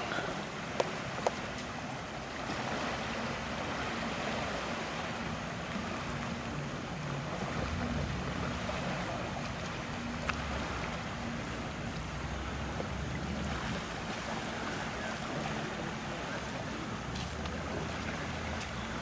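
A distant motorboat engine droning low over a steady hiss of wind and lake water. The hum builds a few seconds in and is strongest in the middle, with a few short clicks.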